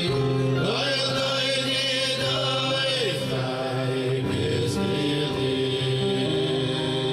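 Jewish celebration music performed live: singing over steady band chords, with a voice that holds long notes and bends its pitch up and down.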